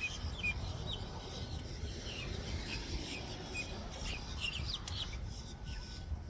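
Small birds chirping, short high chirps scattered throughout over a low steady background rumble.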